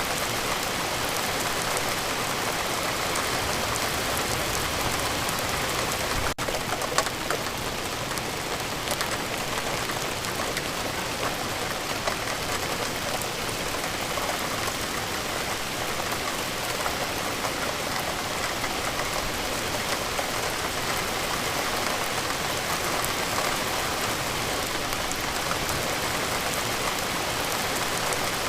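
Steady rain falling and pattering on a surface: an even, continuous hiss with scattered individual drop ticks. It cuts out for a split second about six seconds in.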